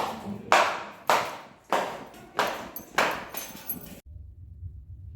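A run of about six sharp swishing strokes, roughly two a second, each starting suddenly and fading quickly. The strokes stop abruptly about four seconds in, leaving only a low hum.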